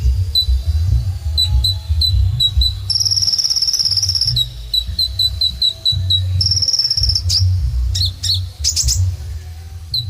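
Kolibri ninja sunbird singing: a string of short, high chirps about two or three a second, broken twice by a longer buzzy trill and, near the end, a few quick sweeping notes. A low rumble runs underneath.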